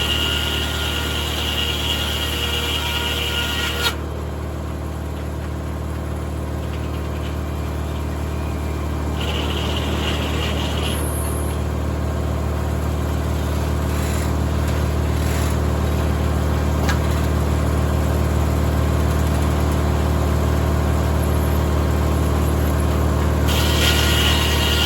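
Tractor-driven 1950 Corley circular sawmill running: a steady engine drone with a low hum under it and a high whine. The whine drops out about four seconds in, briefly returns, and comes back near the end.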